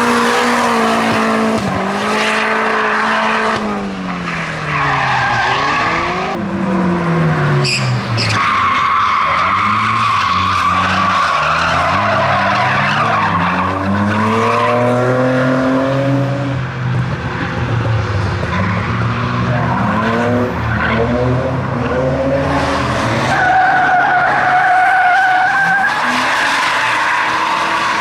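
Drift cars' engines revving hard, rising and falling again and again, with tyres squealing through slides. A long tyre screech comes in the middle.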